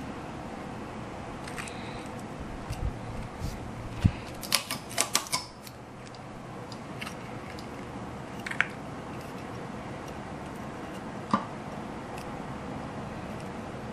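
Sharp small clicks and snaps from hand craft work on a model ship: a quick cluster of them about four to five seconds in, then single clicks further on, over a steady faint hiss.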